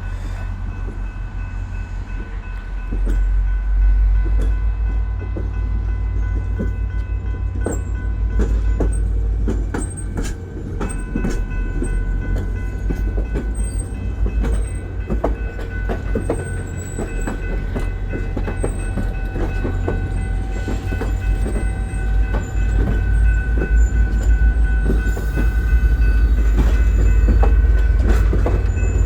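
VIA Rail passenger train moving slowly through the switches: the locomotive's low diesel rumble, steel wheels clicking over rail joints and switch points, and a steady high-pitched wheel squeal.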